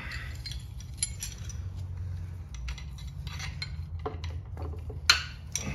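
Metal hand tools clinking and tapping against a Holden grey motor while its oil pump locking bolt is being cracked loose, with a sharper metallic click about five seconds in.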